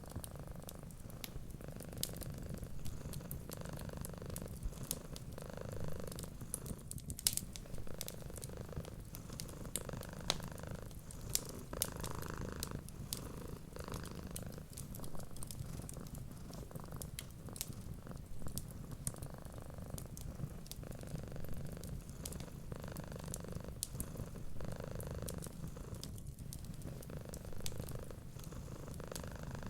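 Domestic cat purring steadily, the purr swelling and easing with each breath, over scattered sharp crackles and pops from a fireplace fire.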